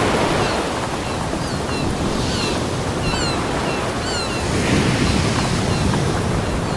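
Ocean waves washing onto a beach: a steady rushing surf that swells again about five seconds in. A few short, high chirps sound through the middle.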